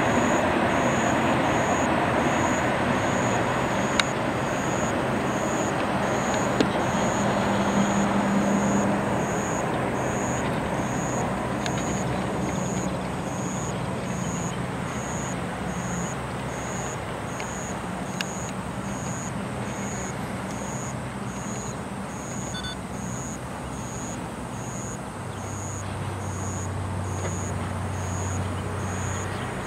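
Train running across a steel truss railway bridge, a steady rumble that slowly fades as it moves away, with a low hum coming in near the end.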